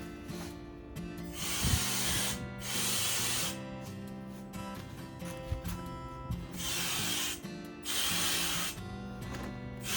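Aerosol spray can hissing in bursts of about a second each, in two pairs, over background music.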